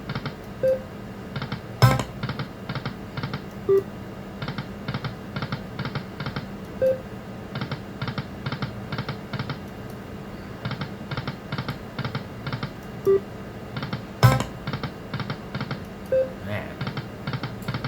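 Lightning Link video slot machine spinning: quick runs of clicking reel sounds that come in groups and stop, short electronic beeps, and a loud sharp click three times as spins are set off.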